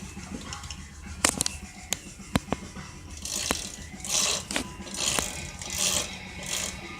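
Work on a minibike with hand tools: a few sharp metal clinks, then a run of short rattling bursts, about one a second.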